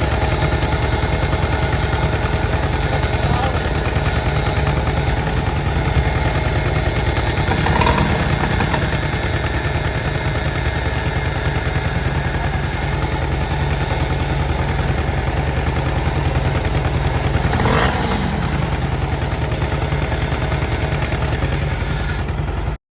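Vintage two-stroke chainsaw engine running steadily, with two brief surges, about eight seconds in and again near eighteen seconds.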